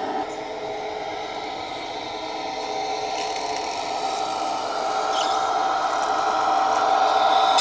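Radio-controlled model truck running, a steady mechanical whine of motor and gears that grows gradually louder.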